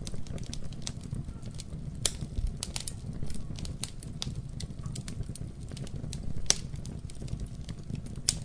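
Wood fire burning in a fireplace: a low steady rumble of flames with irregular sharp crackles and pops, the loudest pops about two seconds and six and a half seconds in.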